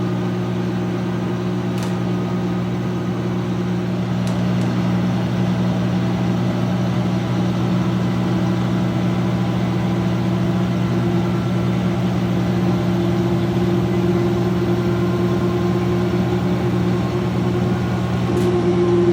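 2006 GE Profile top-loading washer spinning the load in its wash-to-rinse spin: a steady motor hum and whine, whose pitch creeps up slightly a couple of times in the second half.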